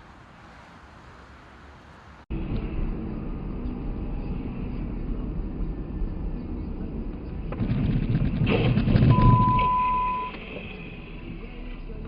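Dashcam recording of a car on the road: a steady rumble of engine and road noise, rising to a louder, rough stretch with clicks a few seconds before the end. A single steady beep lasts about a second in the middle of the loud stretch.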